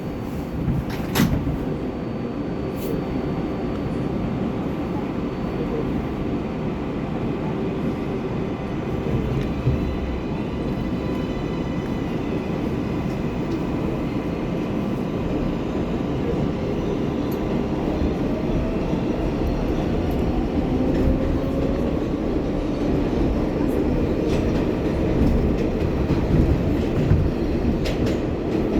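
R188 subway car pulling away and accelerating, heard from inside the car. There is a sharp knock about a second in. After it, a steady rumble of wheels on rail builds, and the traction motors whine, rising in pitch as the train gathers speed.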